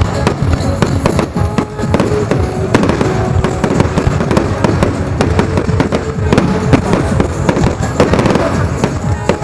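Firework display going off: a dense, continuous run of bangs and crackling reports, with music and voices faintly underneath.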